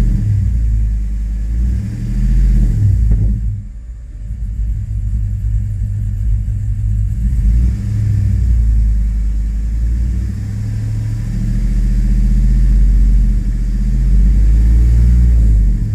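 2005 Chevrolet Tahoe's 5.3-litre V8 revved up and eased off several times, with a heavy low rumble. The engine is misfiring on all cylinders, as the scan data shows, and running lean.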